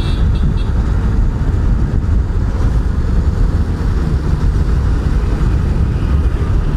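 Steady low wind rush and road noise on a motorcycle coasting downhill in neutral at about 56 km/h.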